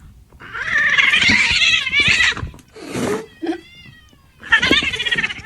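Domestic cat meowing loudly at a shut door to be let back in. One long wavering meow is followed by shorter ones, one of them sliding down in pitch.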